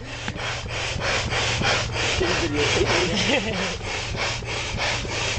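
Manual air pump inflating an air mattress, worked fast by arm: a rapid, even run of air whooshes at about four to five strokes a second.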